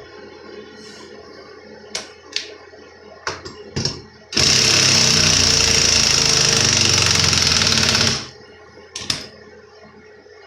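A few light clicks and knocks, then an impact driver runs for about four seconds with a rapid hammering rattle, driving a lag screw into a wall stud, and stops. Two more knocks follow near the end.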